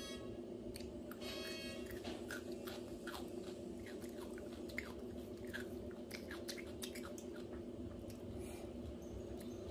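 Close-up eating sounds: chewing and biting with crunches and wet mouth clicks, irregular throughout, over a steady low hum.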